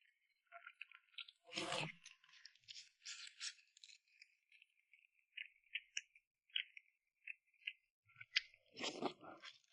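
Someone eating close to the microphone: chewing with a string of short, wet mouth clicks and smacks, and two louder crunchy bites, about a second and a half in and near the end.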